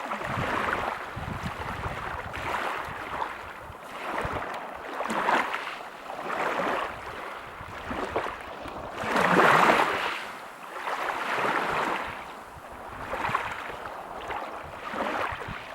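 Ocean surf breaking on a beach: a run of swelling and ebbing washes of white noise, one every second or two, with the biggest wave breaking about two-thirds of the way through.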